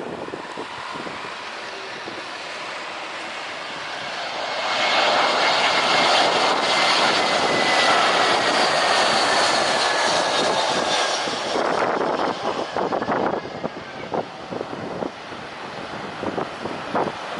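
Boeing 737-500's CFM56 turbofans passing close by: the jet noise swells about five seconds in, holds for several seconds with a whine sliding slowly down in pitch, then fades. Wind buffets the microphone around it.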